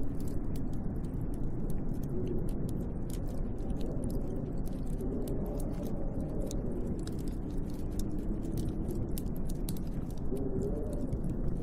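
Snowstorm wind blowing outside a cabin window: a steady low rush with a faint howl that rises and falls, over a constant patter of fine, irregular crackling ticks.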